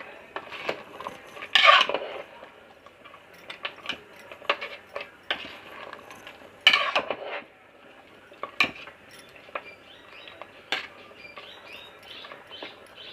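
A spoon stirring chicken curry in a pressure cooker pot, scraping and clinking against the pot in irregular strokes, with a few louder scrapes.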